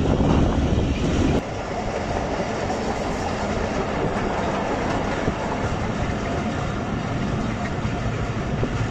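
Passenger train carriage running over the rails, a steady rumble and clatter of the wheels heard from the carriage doorway. The sound drops abruptly about a second and a half in.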